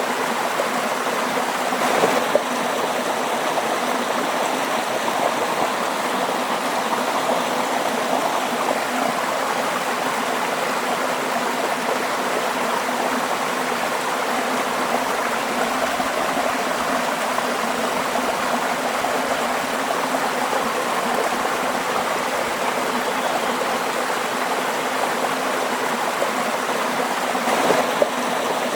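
Waterfall with running water splashing steadily, a continuous even rush with brief slight surges about two seconds in and near the end.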